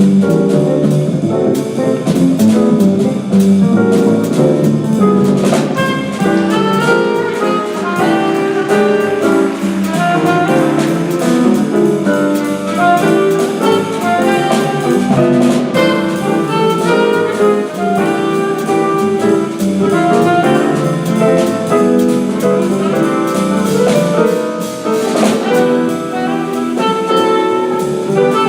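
Live jazz combo playing: alto saxophone leading over piano, bass and drum kit, with occasional cymbal crashes.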